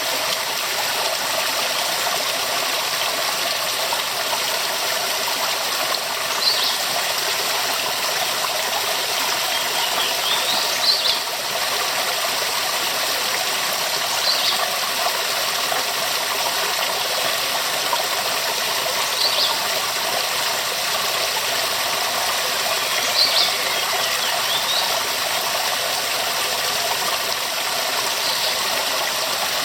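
Waterfall pouring steadily, a dense even rush of falling water. Short high chirps stand out above it every few seconds.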